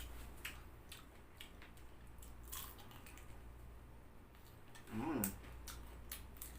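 Close-up chewing of fried chicken and fries, with scattered short wet mouth clicks. A short hummed 'mm' comes about five seconds in.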